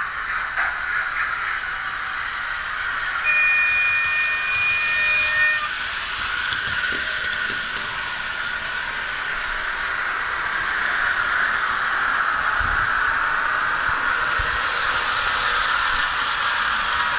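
Märklin model train running on its track with a steady whirring hiss. A two-tone whistle sounds for about two seconds early in the run.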